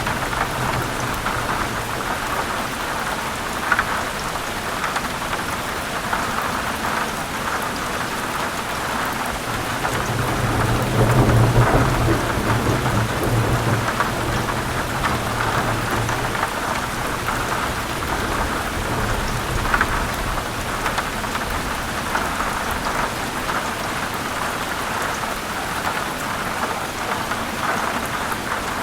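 Heavy rain falling steadily, with a low rumble of thunder that rises about ten seconds in and dies away some six seconds later. A few louder single drops land over the hiss.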